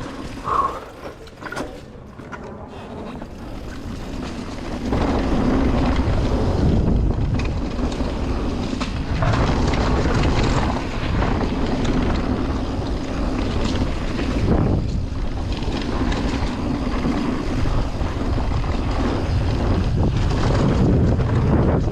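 Wind buffeting the microphone and the rumble of a mountain bike riding down a trail, getting much louder about five seconds in as the bike picks up speed.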